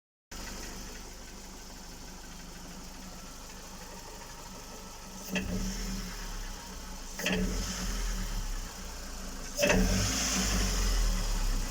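Mitsubishi Lancer IX four-cylinder petrol engine idling, then blipped up three times, about five, seven and nine and a half seconds in. Through this runs a knock that the owner places around cylinder 4, though the engine otherwise runs cleanly; its cause is unknown to him.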